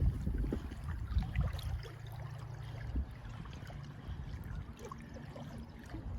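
Wind buffeting the microphone in gusts that ease after about two seconds, over river water trickling and lapping at the bank.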